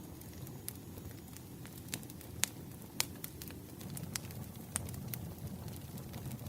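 Wood fire crackling: irregular sharp pops over a low, steady rumble of burning logs, the loudest pops about two and a half and three seconds in.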